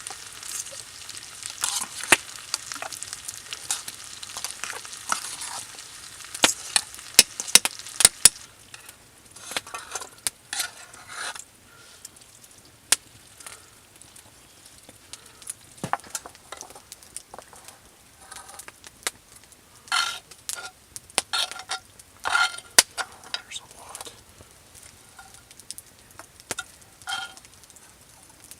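Food sizzling in a pan while a utensil stirs it, with sharp clicks and clinks against the pan. The sizzle is strongest in the first eight seconds or so, and after that come scattered scrapes and clinks of the utensil.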